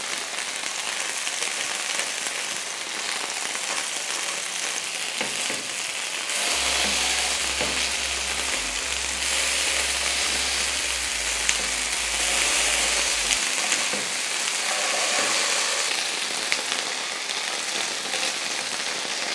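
Minced-chicken kebabs glazed with barbecue sauce sizzling in oil on a hot flat pan, a steady frying hiss, with a few light clicks as tongs turn them.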